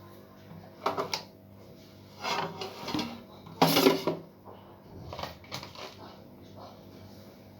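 Eating and handling sounds close to the microphone: a quick cluster of clicks and knocks about a second in, then scraping and rustling, with the loudest clatter a little before halfway, like utensils and dishes being handled during a meal.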